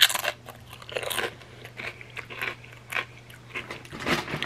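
Close-up crunching of a crisp chip loaded with creamy dip: a loud bite at the start, then irregular crunches of chewing.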